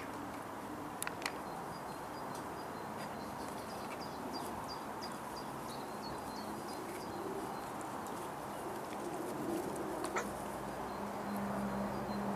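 A small bird chirping over and over in short, high, falling notes over steady outdoor background noise, with a couple of light knocks about a second in; a low steady hum sets in near the end.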